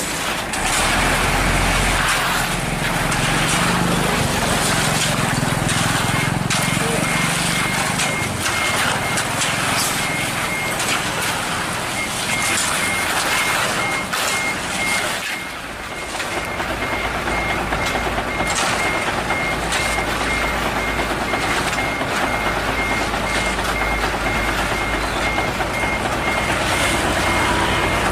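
Heavy diesel truck running at a construction site, with its reversing alarm beeping in a fast, steady pulse that drops out briefly a couple of times. Scattered knocks and clanks of site work are heard over the engine's low rumble.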